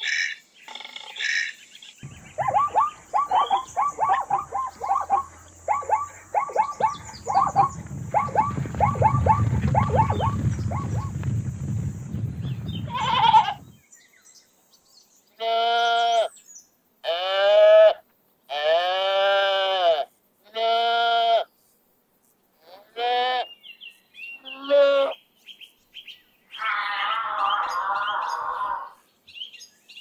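A koala's bellow: a long run of quick rasping grunts over a deep rumble. Then a string of sheep bleats, each about a second long and wavering, ending with a hoarser one.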